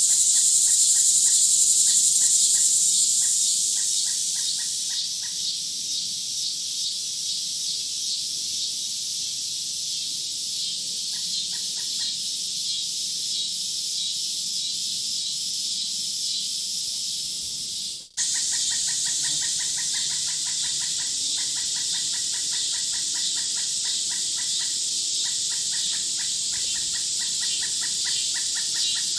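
Nature ambience: a dense, steady high buzz of insects with rows of rapid, evenly repeated chirps, and bird calls mixed in. The sound cuts out for a moment about eighteen seconds in, then resumes.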